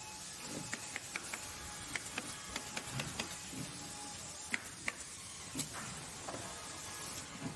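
Factory or workshop ambience: a steady hiss with irregular sharp clicks and knocks, some in quick runs of two or three.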